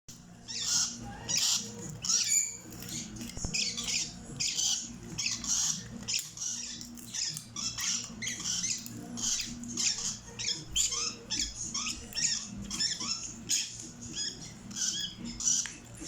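Small birds chirping: a steady run of short, high-pitched chirps, about two a second, over a faint low hum.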